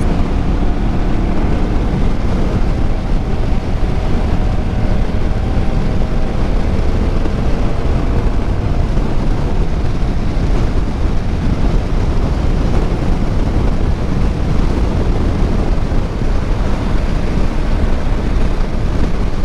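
Motorcycle riding at a steady cruising speed: the engine running evenly under a steady rush of wind over the microphone.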